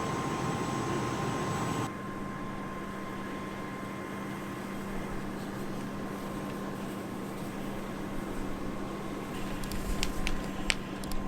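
Steady background hum and noise that changes abruptly about two seconds in to a quieter hum with a low steady tone, with a few sharp clicks near the end.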